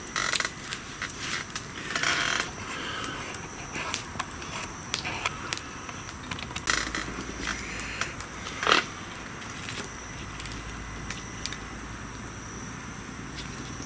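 Wood bonfire crackling: scattered sharp pops and clicks over a low hiss. They are busier in the first half, with one louder knock about nine seconds in.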